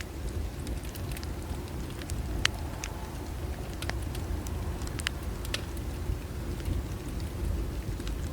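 Bonfire burning: a steady low rumble with scattered sharp crackles and pops from the burning wood, the loudest about two and a half seconds in.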